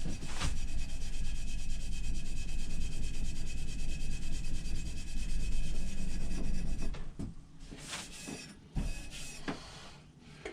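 A Scotch-Brite abrasive pad is scrubbed rapidly back and forth over a steel axe head to polish it. The strokes are fast and steady and stop about seven seconds in, followed by a few scattered knocks of handling.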